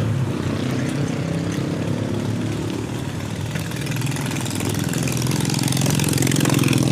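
Motor vehicle engine running with a steady low hum, growing a little louder near the end.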